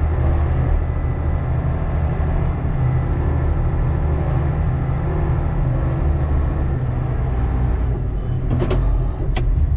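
Volvo A25G articulated haul truck's diesel engine running steadily under load. Near the end, a few sharp clicks or knocks.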